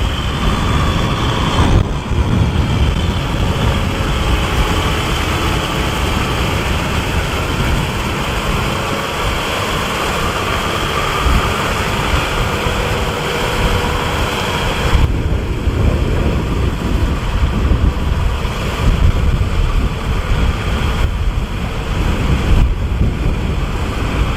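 Kubota M6040SU tractor's diesel engine running steadily as it plows through mud. The higher hissing part of the noise drops away about fifteen seconds in.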